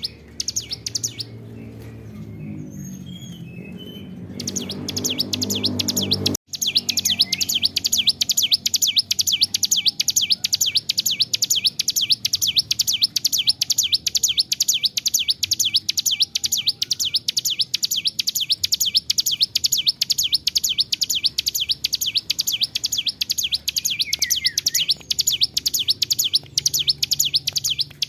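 Ciblek gunung, a prinia, singing a long, fast run of sharp, repeated high notes without pause for breath. The song stops about a second in. A lower sound swells in the gap, and the run resumes after about six seconds, continuing unbroken to the end.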